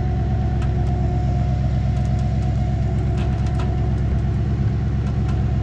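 Rollback tow truck's engine running steadily at idle, a low even rumble with a steady hum above it and a few light clicks.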